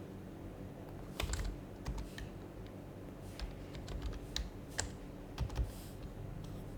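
Typing on an HHKB Professional HYBRID Type-S keyboard with Topre capacitive switches, in irregular keystrokes with a quick run of keys about a second in and scattered strokes after.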